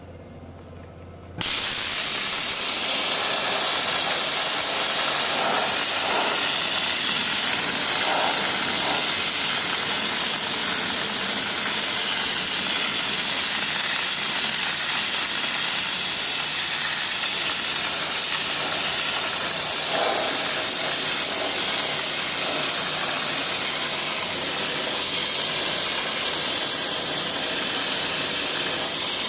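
Dry ice blaster spraying a dirty car engine, a loud steady hiss of compressed air that starts abruptly about a second and a half in.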